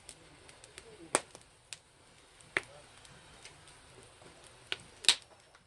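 Wood fire crackling, with small ticks and sharp pops about a second in, at two and a half seconds, and a louder pair near the end.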